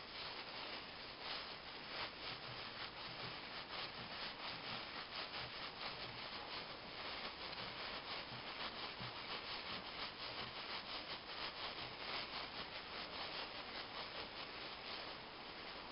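Steady back-and-forth scraping and rubbing on a Peugeot 206 cylinder head as it is cleaned by hand, in quick strokes about twice a second.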